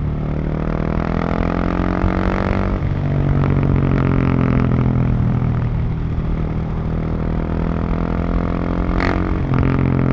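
Husqvarna 701's single-cylinder engine pulling under way, with a steady drone. The revs climb and the pitch drops sharply about three seconds in and again near the end, as at upshifts.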